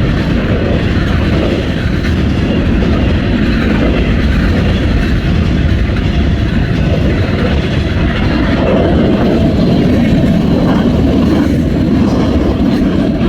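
Norfolk Southern freight train rolling past at close range: a loud, steady rumble of railcar wheels on the rails.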